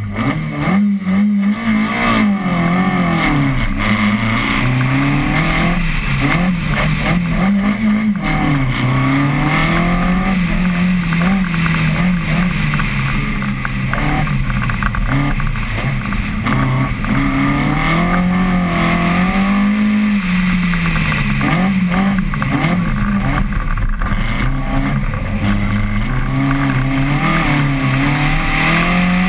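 Mk1 Ford Cortina rally car's engine pulling away hard at the start, then revving up and falling back over and over, every few seconds, as it is driven flat out round a tight track.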